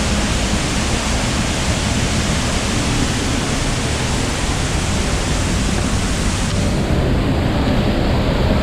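Waterfall running: a loud, steady roar of falling water with no breaks. Its highest hiss drops away about seven seconds in.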